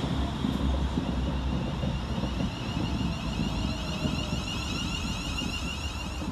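Class 350 Desiro electric multiple unit in motion, with a steady low rumble. A set of high, slightly wavering whining tones from its traction equipment comes in about two seconds in.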